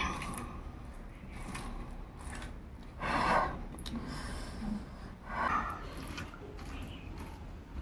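Close-up eating sounds: a person chewing mouthfuls of rice with fried eggplant, with mouth and breathing noises. There are two louder short smacking bursts, about three and five seconds in.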